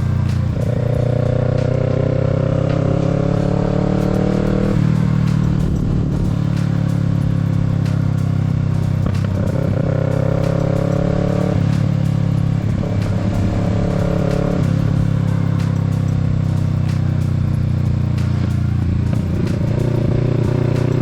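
Kawasaki Z650's parallel-twin engine under way, its pitch rising as it pulls through the revs about a second in, around ten and thirteen seconds, and again near the end, dropping back in between, over a steady drone.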